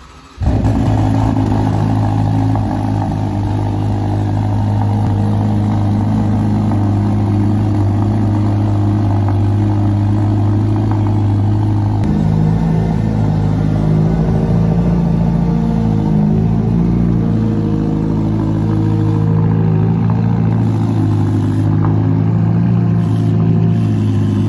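Ferrari Roma's 3.9-litre twin-turbo V8 idling steadily. It comes in abruptly about half a second in, and its note shifts slightly about halfway through.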